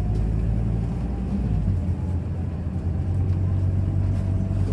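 Scania Citywide city bus with an ethanol-fuelled engine and ZF automatic gearbox running steadily: an even, low engine drone that holds without revving up or down.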